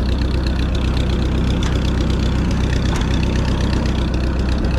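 Minneapolis Moline ZB tractor's four-cylinder engine idling steadily.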